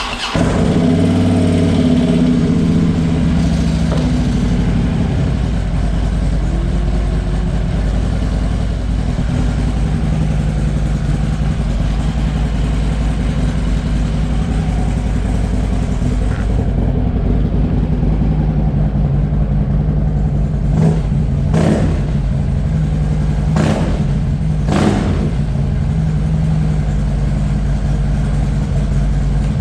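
2015 Harley-Davidson Road Glide Special's 103-cubic-inch V-twin, with a D&D 2-into-1 exhaust, running steadily just after start-up, settling over the first few seconds. Three short louder bursts come about two-thirds of the way through.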